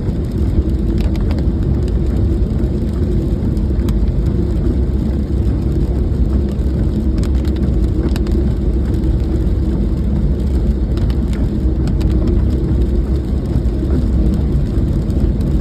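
Steady low rumble of a car driving in the rain, with scattered faint clicks.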